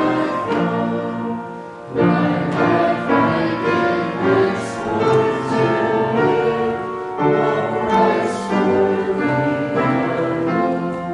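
A hymn sung by several voices with piano accompaniment.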